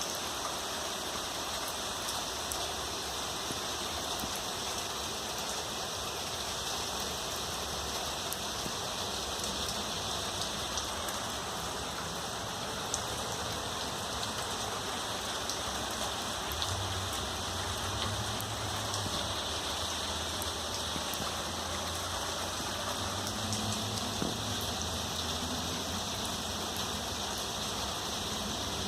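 Steady moderate rain falling as an even hiss with scattered ticks of drops. A low hum joins in about halfway through.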